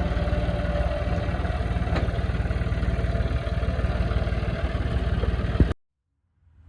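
Silage harvester machinery running steadily with a rapid low throb, cutting off abruptly near the end.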